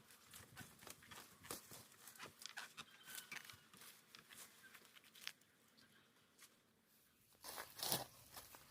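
Faint crackling and rustling of dry leaves and twigs, in scattered short clicks, with a louder burst of rustling near the end.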